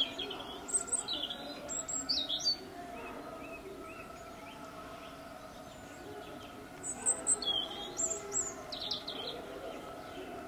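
Small bird chirping in two short bouts of quick, high chirps, one right at the start and another about seven seconds in, over a steady background hum.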